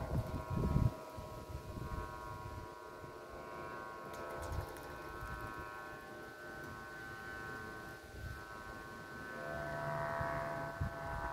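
A steady humming chord of several high tones held without a break, swelling a little near the end, with wind buffeting the microphone in the first second.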